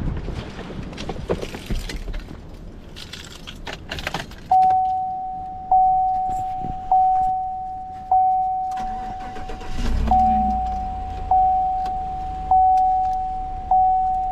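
Keys jangling and clicking, then a car's warning chime dinging at one steady pitch about every second and a quarter. About ten seconds in the car's engine starts and runs under the chime, being warmed up on a cold day.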